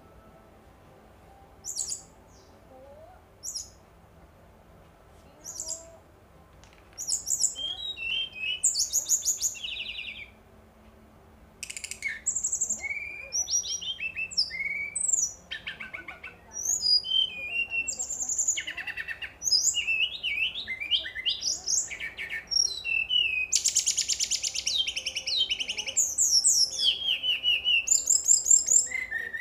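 Brown-chested jungle flycatcher singing. At first it gives a few short, high, separate chirps. From about seven seconds in, it breaks into a fast, varied run of whistled phrases and trills, with one brief pause around ten seconds.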